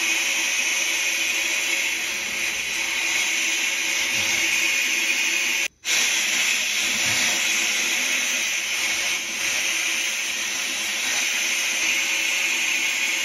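An electric power tool running steadily with a constant whirring hiss. It breaks off for an instant about six seconds in, then carries on the same.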